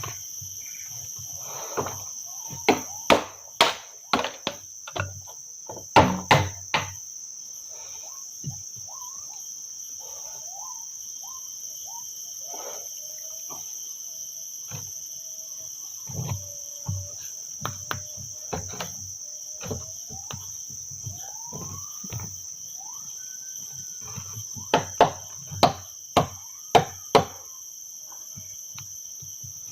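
Steady high-pitched drone of a forest insect chorus, held at a few fixed pitches. Twice it is broken by a run of loud, sharp knocks at about two a second, one early and one near the end.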